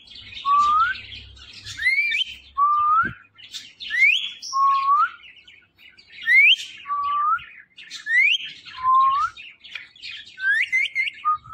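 Ringneck parrot whistling a repeated two-note phrase about every two seconds: a quick rising whistle followed by a lower note that curves upward, with soft chatter in between. Near the end it gives a quick run of three short whistles.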